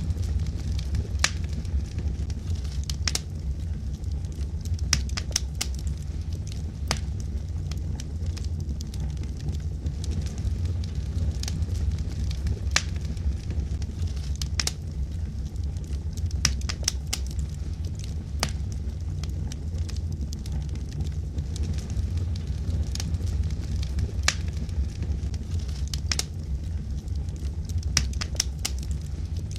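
Wood fire burning in a fireplace: a steady low rumble with sharp, irregular crackles and pops from the burning logs.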